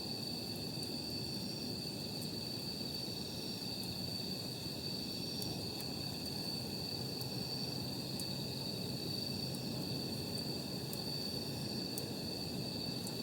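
Wood campfire crackling softly, with scattered sharp pops, under a steady high-pitched chirring of night insects and a low, even background hiss.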